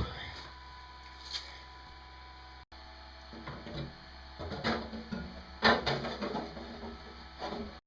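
Knocks, scrapes and rattles of parts and tools being handled at a workbench, with a few louder knocks in the second half.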